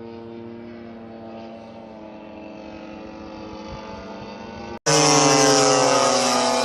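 Twin DLE 35 cc single-cylinder two-stroke petrol engines of a large radio-controlled Cessna 310 model running steadily. A little over two-thirds through, the sound cuts out for an instant and comes back much louder and brighter, its pitch then slowly sagging.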